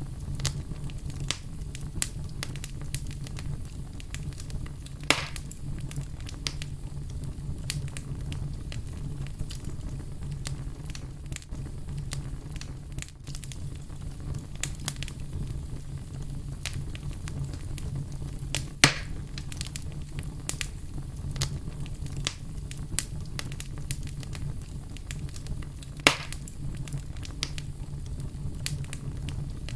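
Wood fire burning with a steady low rumble and frequent sharp crackles, with three louder pops spread through.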